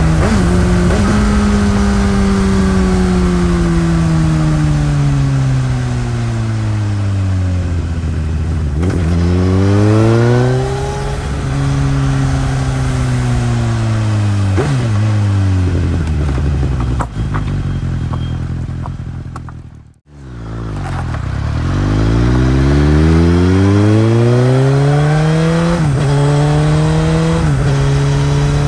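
2018 Suzuki GSX-S1000's inline-four engine through its stock exhaust, slowing under engine braking with blips of revs as it shifts down, then pulling hard with the pitch rising through the gears and upshifts near the end. The sound drops away almost to nothing for a moment about two thirds of the way through.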